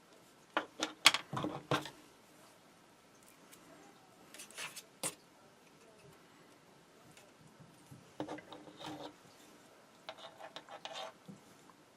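Hands handling thin wire and heat shrink tubing at a workbench: small clicks and rubbing in four short bursts, the loudest in the first two seconds.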